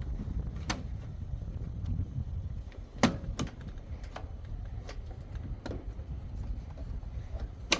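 Plastic clicks and knocks as a washing machine's front control panel is worked loose and lifted out, with a low rumble of handling underneath; the sharpest knocks come about three seconds in and near the end.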